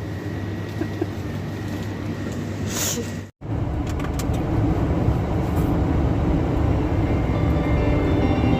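A steady low hum that cuts out abruptly just over three seconds in, followed by a louder low rumble of a running vehicle, typical of a truck's engine and road noise.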